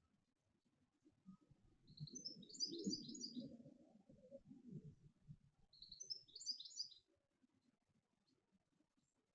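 A small bird singing two short phrases of rapid, high, tumbling notes, a few seconds apart. Under the first phrase there is a faint low rumbling with soft knocks.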